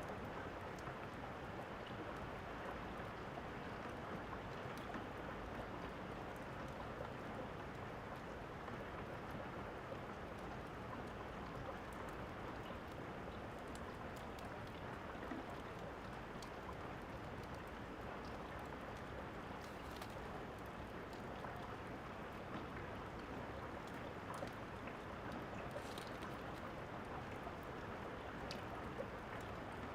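Steady rain hiss, with a few faint, sharp crackles of a wood fire here and there.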